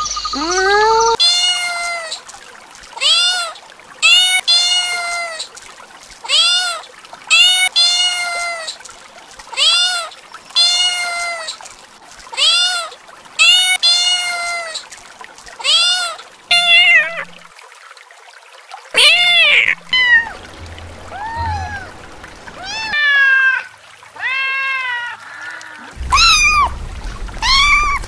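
Kittens meowing over and over, short high-pitched calls that rise and fall, about one a second.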